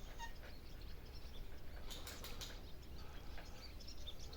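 Small birds chirping faintly and intermittently, with a few soft clicks or rustles about two seconds in.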